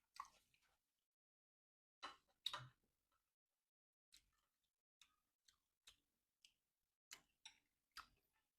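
Close-miked chewing of crunchy food. Two louder crunches come about two seconds in, followed by a run of soft mouth clicks about two a second.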